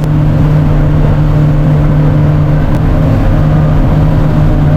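Fishing boat's engine running at steady high revs under way, a constant hum with the rush of wind and water over it.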